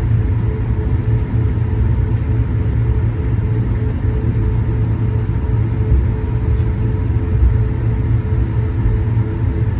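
Cabin noise of an Airbus A220 heard from a passenger seat: a steady, heavy low rumble from its Pratt & Whitney PW1500G geared turbofans and the airflow, with a constant hum of several steady tones over it.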